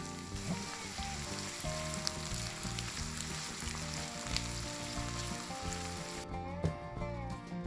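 Diced vegetables sizzling in hot oil in a frying pan as they are stirred, over background music. The sizzling cuts off suddenly about six seconds in, leaving only the music.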